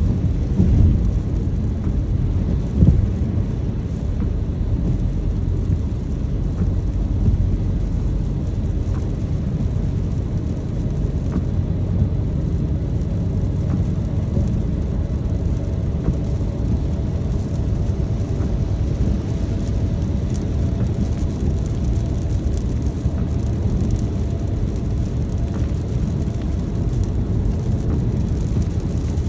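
Car driving in rain: a steady low rumble of road and engine noise with light rain ticking over it, and two dull thumps in the first three seconds.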